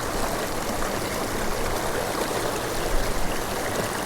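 Steady rush of a mountain creek and its waterfall, with a brief low rumble about three seconds in.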